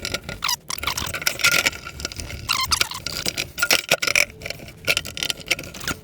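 A nail brush scrubbing dirt off a Lambretta TS1 aluminium engine case, in fast, uneven back-and-forth strokes with a scratchy hiss.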